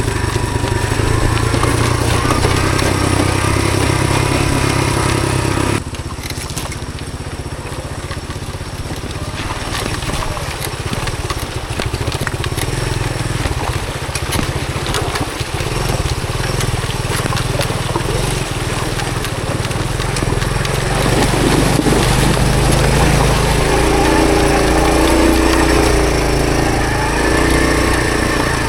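Honda CT110 postie bike's small single-cylinder four-stroke engine running while riding. The engine note drops suddenly about six seconds in, then builds back up over the following stretch.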